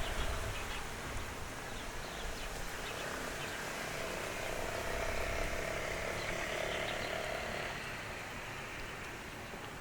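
Lakeside ambience: a steady chorus of animal calls, swelling in the middle and easing off near the end, over a low wind rumble on the microphone that fades in the first second.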